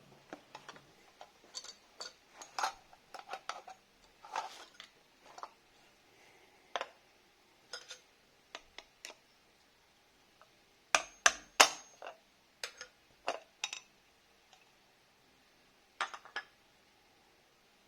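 Hand tools and small metal parts clinking and tapping irregularly, with a cluster of louder knocks about eleven seconds in.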